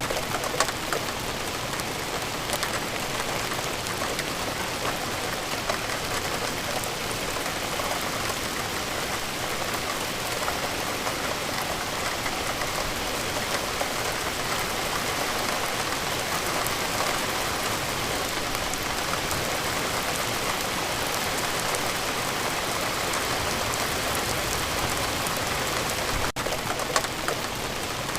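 Steady rain falling, a dense even hiss of drops with individual drops ticking through it. A very brief dropout about 26 seconds in.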